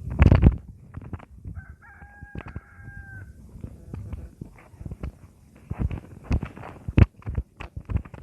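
A rooster crowing once, one long held call, among scattered knocks and bumps, with a loud bump at the start and another about seven seconds in.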